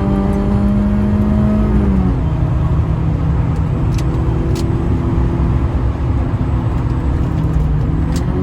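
BMW E36 318's four-cylinder engine running under way, its note holding steady, then dropping about two seconds in and settling into a steady lower drone before climbing again near the end.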